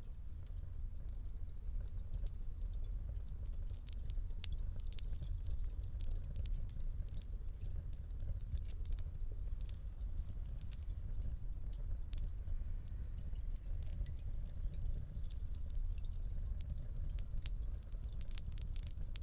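Wood fire crackling in a fireplace: a dense, irregular run of small sharp pops and snaps over a steady low rumble.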